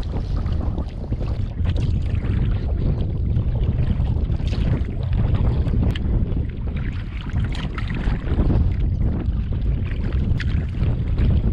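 Wind buffeting the microphone in a headwind of 15 gusting to 20, a steady loud rumble, with irregular splashes of water from kayak paddle strokes.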